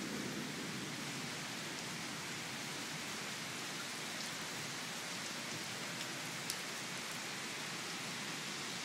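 Heavy thunderstorm rain falling steadily, an even hiss, with one sharp tick about six and a half seconds in.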